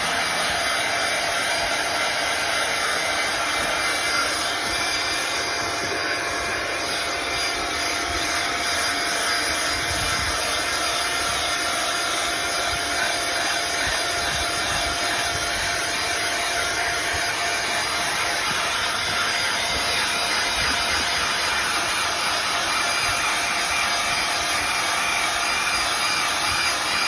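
Deerma DX118C vacuum cleaner running steadily at full power, a high motor whine over the rush of air, as it sucks up sawdust and wood offcuts.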